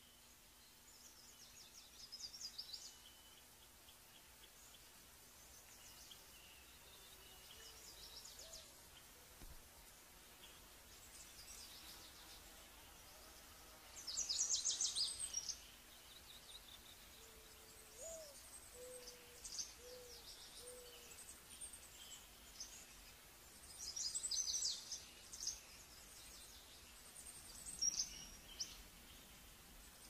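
Wild birds calling: bursts of high, rapid trilling chirps, loudest about halfway through and again a little after, over a steady faint outdoor hiss. A few short low hooting notes come between the two loudest bursts.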